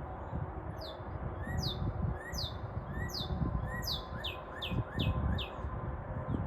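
A songbird calling in a series of sharp, steeply falling whistled notes, about two a second, quickening in the second half, over a low rumbling noise.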